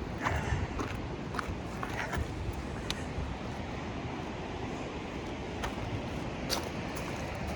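Steady rushing outdoor noise with a few faint, scattered clicks.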